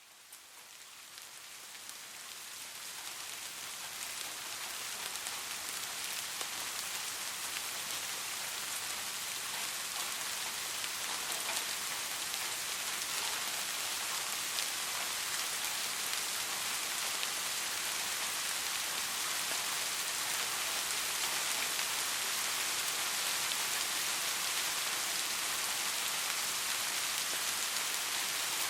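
Soft, steady rain: a dense hiss of fine raindrops with little low rumble, fading in over the first several seconds and then holding level.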